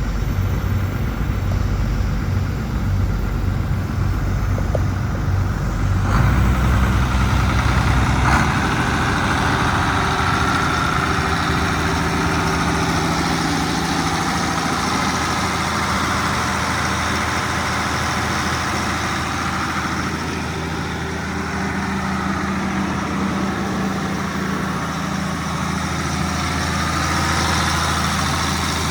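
Case 2290 tractor's six-cylinder turbo diesel engine running steadily. Its engine note changes about six seconds in and again a couple of seconds later, then settles.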